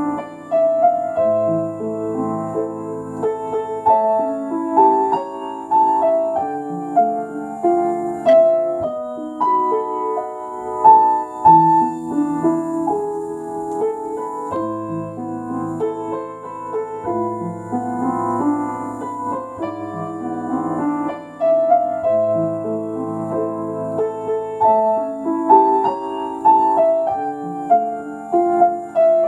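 Solo piano playing a slow elegy: a melody over held, ringing chords.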